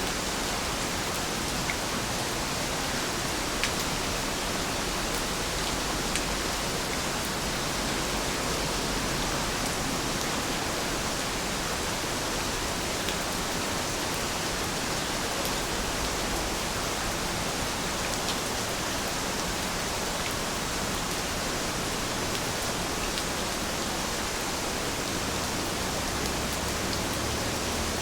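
Steady rain: an even, constant hiss with a few faint drop ticks now and then.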